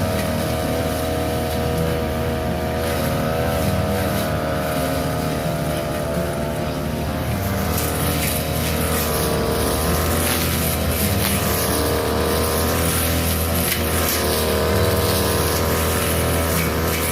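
Small petrol engine of a grass-cutting machine running steadily at working speed while cutting overgrown grass. A hiss of the blade going through the grass gets louder about halfway through.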